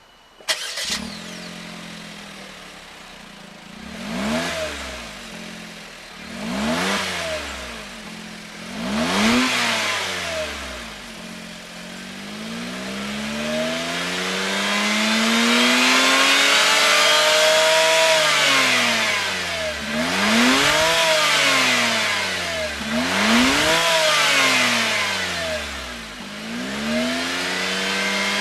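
Daihatsu Taft Turbo's 660 cc turbocharged three-cylinder engine, heard through a Kakimoto GTbox 06&S aftermarket muffler, starting up about half a second in and idling. It is then revved in three short blips, climbs slowly to a long high-rev hold, drops, blips twice more and starts rising again near the end.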